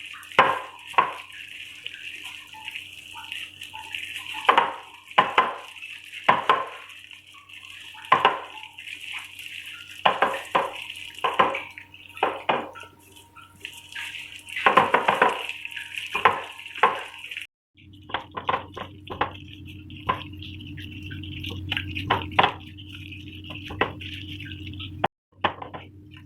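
Chicken marinade of cornflour, flour, egg and spices being mixed in a bowl, with irregular clinks and wet scraping against the bowl. After a sudden cut about 17 seconds in, a steady low hum carries on with a few soft clicks.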